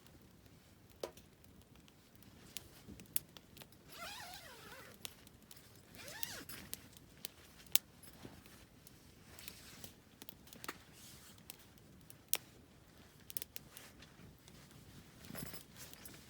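Wood campfire crackling softly, with irregular sharp pops and snaps. Two brief wavering squeaks or whistles come about four and six seconds in.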